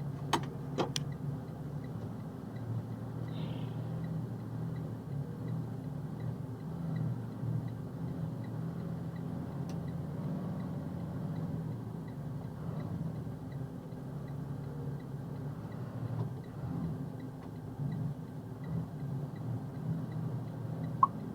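Box truck's diesel engine running steadily, heard from inside the cab, on fuel gelled by the cold that has it running poorly. A faint, regular ticking runs through it, with two sharp clicks just after the start.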